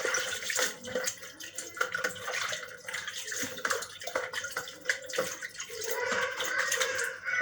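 Water splashing and sloshing in irregular bursts as freshly picked water hyacinth is washed by hand.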